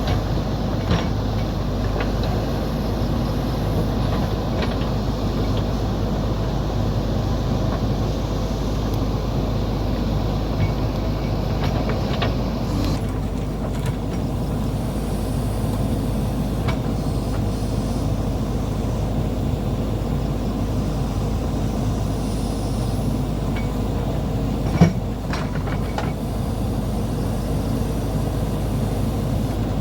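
Heavy machinery's diesel engine running steadily, with occasional sharp knocks and one louder clank about 25 seconds in.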